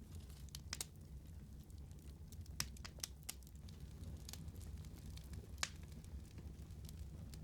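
Wood fire burning with a low steady rumble and scattered sharp crackles and pops, the sharpest about a third of the way in and again past the middle.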